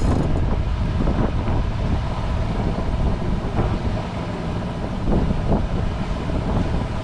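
Wind rumbling on the microphone on a boat at sea: a steady, loud low rumble without any clear pitch.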